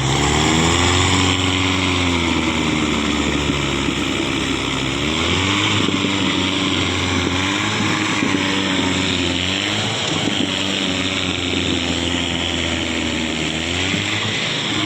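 Tractor diesel engine running hard under load, its pitch dipping and rising several times as the revs change.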